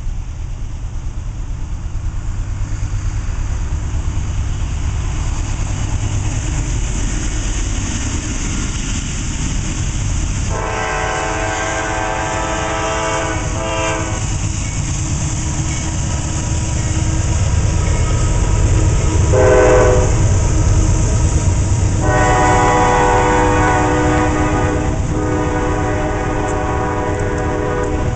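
Diesel locomotives of a heavy freight train running under load as the train picks up speed, their low rumble building as they come close. The locomotive's multi-tone air horn sounds a long blast, a short one, then a long drawn-out blast broken once.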